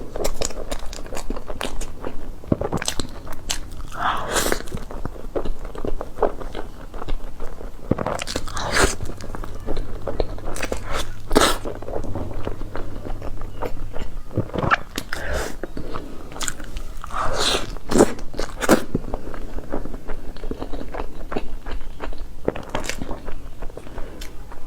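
Close-miked eating sounds of cake being eaten: repeated bites and chewing with many sharp wet mouth clicks and smacks.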